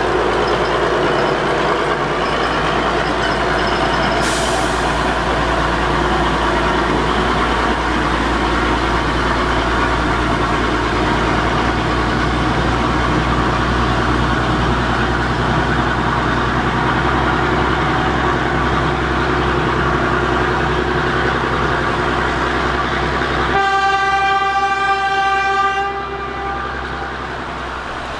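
Preserved locomotive and train running steadily with a continuous low rumble. Near the end the locomotive's whistle sounds one clear note for about two seconds, and the running noise eases after it.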